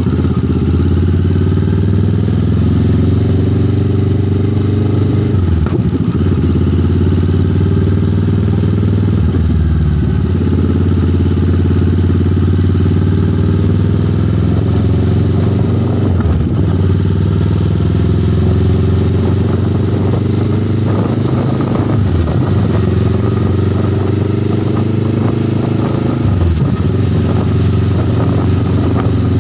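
Motorcycle engine running under way, its pitch climbing and then dropping back about every five seconds as it speeds up through the gears.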